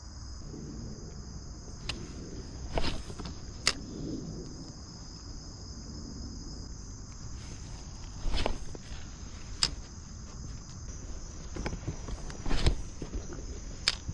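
Steady high-pitched insect chorus, with several sharp knocks and thumps scattered through it.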